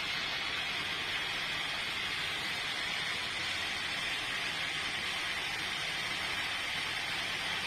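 Sawmill saw running with a steady, even noise that does not change, and a faint low hum beneath it.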